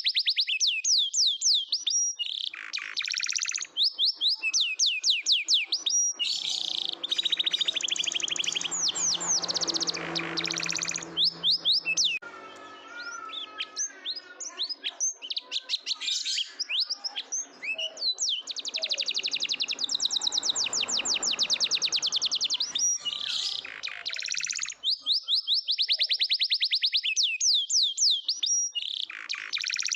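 Domestic canary singing a long, continuous song of rapid trills and fast repeated high notes, with a softer, lower warbling passage about twelve seconds in.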